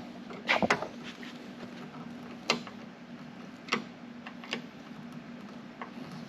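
A few sharp, scattered clicks and taps of hand tools and hardware as a side mirror is fastened to a car door, over a steady low hum.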